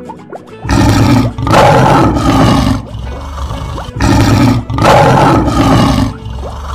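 Lion roar sound effect, played twice; each time a short roar leads into a longer one. Soft plucked harp music plays underneath.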